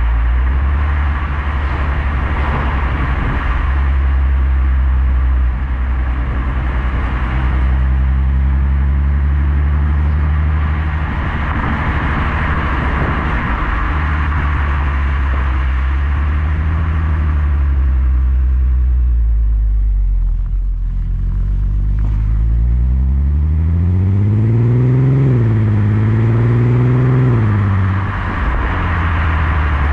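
Skoda Superb 3.6 FSI VR6 engine through a Gestec cat-back exhaust, running at a steady low note while driving. Near the end the revs climb twice with a short drop between, then fall away.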